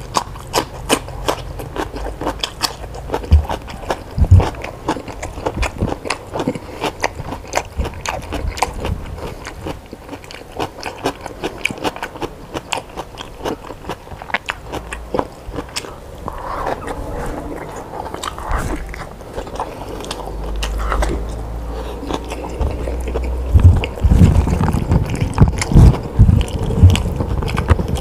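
A person biting and chewing food close to the microphone: a dense run of small clicks and crunches, with louder bites near the end.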